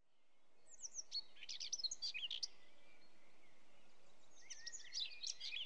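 Songbird chirping in quick, high warbled phrases, one run about a second in and another near the end, over faint outdoor background noise that fades up from silence.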